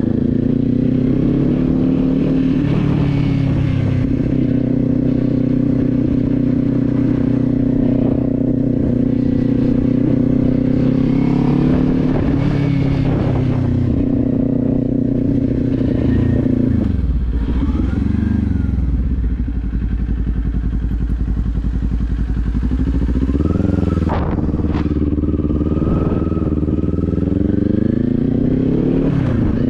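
Kawasaki Z400 parallel-twin engine under way at steady revs, dropping to low revs for several seconds past the middle and then accelerating back up, with wind buffeting the microphone.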